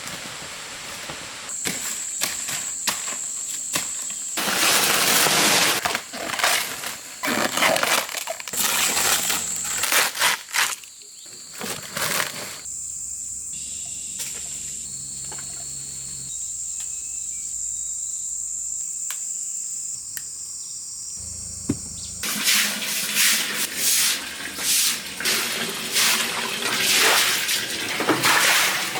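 Insects buzzing with a steady high tone, broken by stretches of loud, irregular noise bursts.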